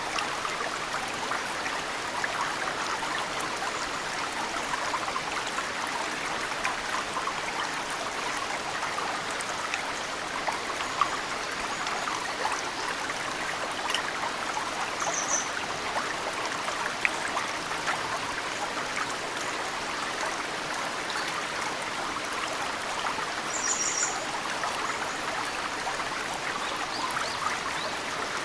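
Mountain stream running steadily, with drops of snowmelt falling into the water as scattered small plinks. A bird gives a short high call about halfway through and again near the end.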